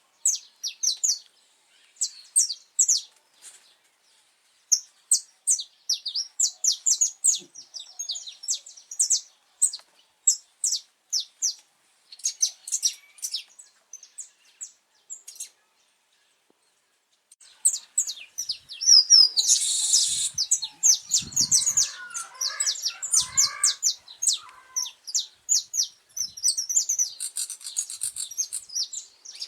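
Saffron finch singing: phrases of rapid, high chirping notes, with a pause of a few seconds partway through before the song comes back louder and denser.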